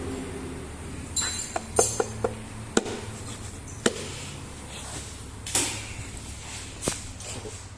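Sharp metallic knocks and clinks, as of tools striking or being set down on metal, a quick run of them early on and then single ones every second or so, over a steady low hum.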